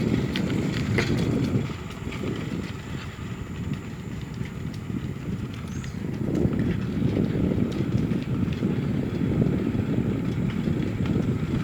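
Low, fluctuating rumbling noise that eases off for a few seconds in the middle, with scattered faint clicks and a thin high steady tone above it.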